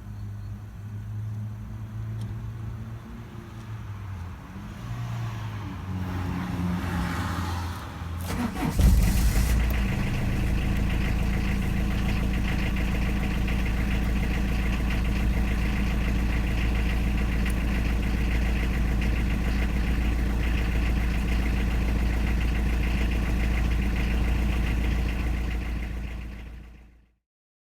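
Citroën ZX TD's XUD9 1.9 turbodiesel running on a cold morning at -6°C, with steady diesel clatter. It is quieter at first, turns sharply louder about nine seconds in, then holds steady before fading out near the end.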